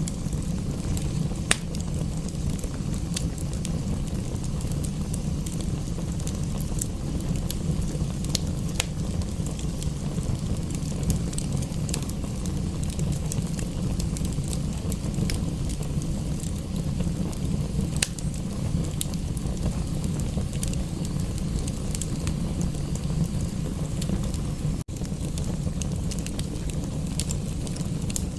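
Fireplace fire crackling, with sharp pops every second or two over a steady low rumble. A momentary dropout breaks the sound a few seconds before the end.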